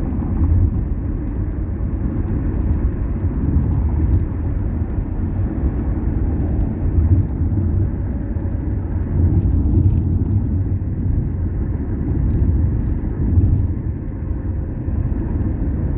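Car driving along a road: a steady low rumble of engine and tyre noise, with small swells in loudness.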